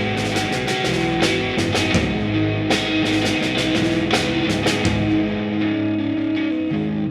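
Instrumental rock music with electric guitar and a steady drum beat, no vocals.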